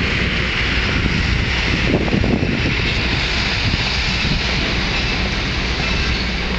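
Wind rushing over the microphone on a moving train, over the steady low rumble of the diesel locomotive running just ahead.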